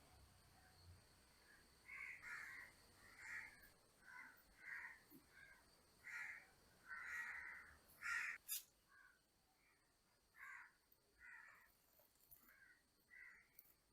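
Crows cawing faintly: a long series of short calls with brief pauses, the loudest about eight seconds in.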